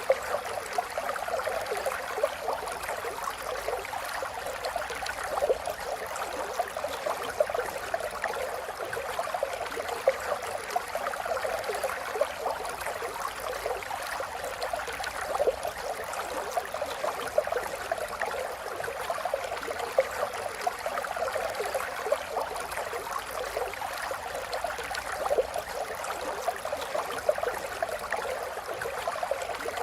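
Running water of a small stream babbling and trickling steadily over stones, a continuous bubbling wash.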